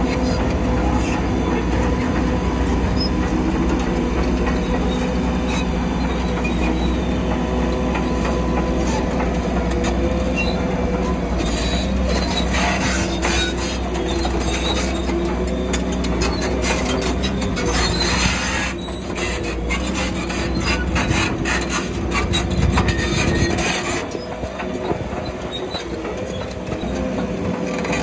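Shantui crawler bulldozer at work: its diesel engine runs steadily while the steel tracks squeal and clank, with a dense spell of clattering in the middle.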